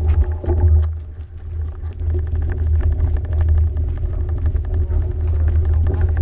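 Heavy low rumble of wind buffeting the microphone on a moving bike, with a fast, even ticking from about two seconds in.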